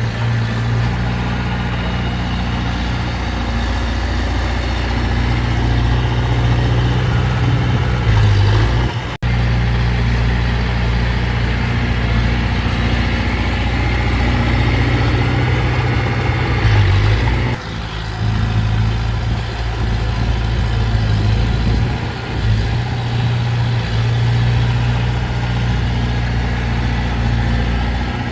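Heavy earthmoving machinery's diesel engine running steadily, with a short gap about nine seconds in.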